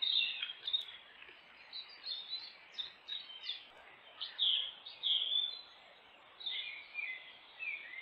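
Songbird singing: a run of short, varied chirps and whistled phrases in quick clusters, over a steady hiss from the trail camera's microphone.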